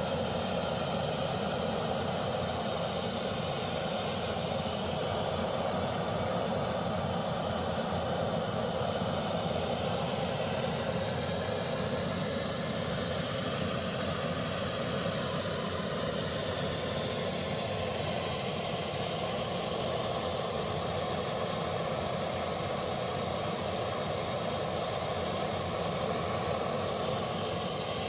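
Steady, even hissing noise with no pitch or rhythm.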